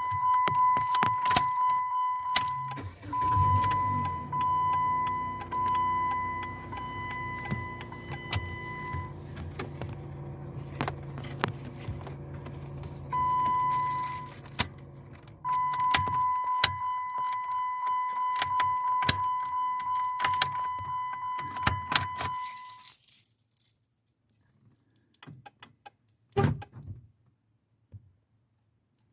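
Rapid, irregular clicking from a 2016 Jeep Patriot's faulty actuator, over a steady high warning tone from the car that breaks off briefly now and then. A low hum joins about three seconds in and fades by the middle. Everything stops about 23 seconds in, leaving only a few clicks.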